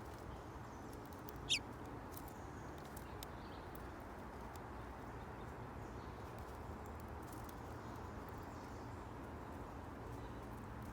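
A single short, high bird call, sweeping down in pitch, about a second and a half in, over a steady low background rumble with a few faint ticks.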